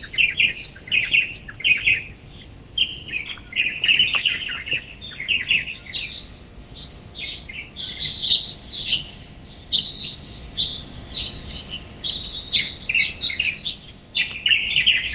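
Small birds chirping and twittering, many short calls overlapping with hardly a break, a little sparser and higher in the middle stretch.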